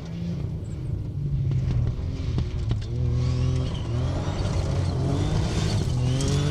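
Ford Fiesta Rally4 rally car approaching at full throttle, growing louder. The engine note climbs in pitch, drops back at a gear change about four seconds in, and climbs again.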